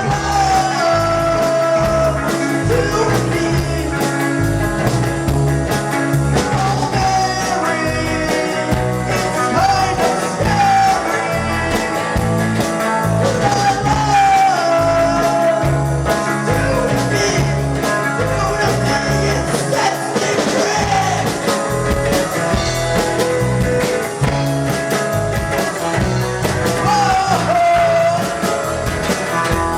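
Rock band playing live with a lead singer, electric guitars and a steady drum and bass beat.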